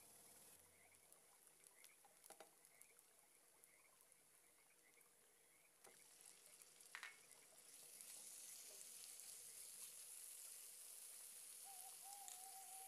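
Faint sizzling of chopped onions frying in oil in a nonstick pan. Diced raw chicken breast goes in about six to seven seconds in with a couple of soft knocks, and the sizzle gets louder after that as the chicken starts to fry.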